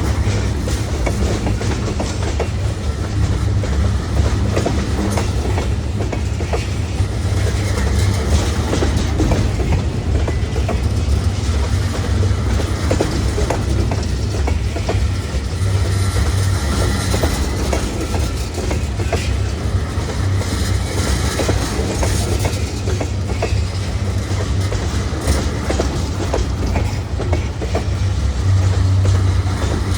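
Freight train rolling past with a steady low rumble, its wheels clicking over the rail joints.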